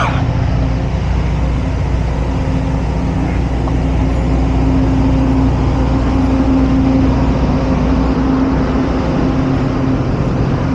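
An engine running steadily close by: a loud, even hum with a steady pitched drone, growing a little louder partway through. A sharp click right at the start.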